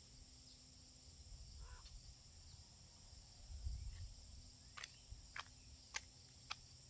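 Faint steady high trilling of crickets or other insects, joined about five seconds in by a regular series of short sharp ticks roughly every half second.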